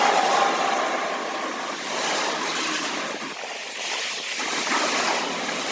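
Steady rushing wash of freeway traffic, easing briefly about three and a half seconds in.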